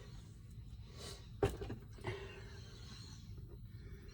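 Two light knocks, about half a second apart, from paint containers and a mixing cup being handled, over a low steady hum.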